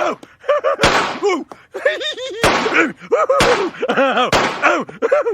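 Cartoon slapstick sound effects: a string of hard smacks about a second apart, with short pitched cries that rise and fall between them.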